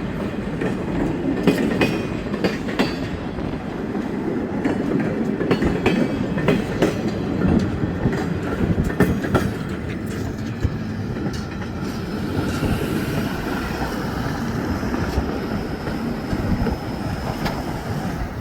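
Keewatin Railway train rolling past, wheels rumbling and clicking over the rail joints. The clicking thins out after about twelve seconds, leaving a quieter rumble with a faint thin squeal.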